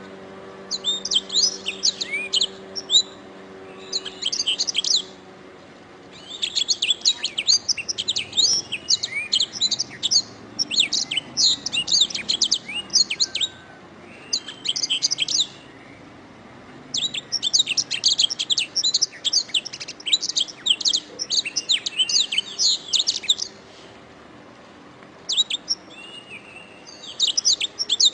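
Canary singing: rapid, high trills and chirping runs in phrases of one to three seconds, broken by short pauses.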